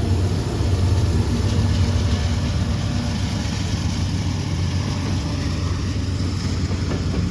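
Heavy diesel freight locomotives running with a steady low engine rumble, typical of a northbound freight pulling away.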